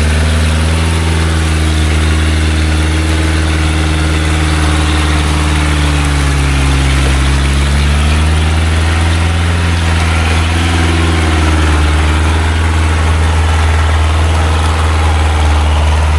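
Engine of a loaded small logging truck running steadily at a low, deep pitch. Its speed sags slightly about halfway through and picks back up.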